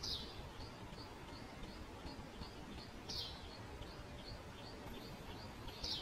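Small birds chirping: a steady run of short high chirps, about three a second, with a louder falling call three times, at the start, midway and at the end.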